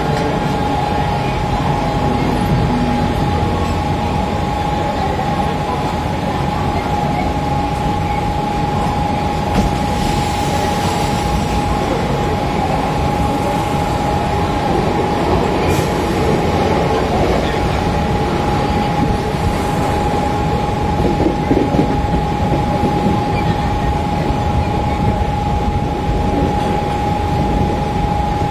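Mumbai suburban electric local train running at speed, heard from inside the coach at an open window: a steady rumble of wheels on rail with a constant whine, while another local train passes close by on the adjacent track.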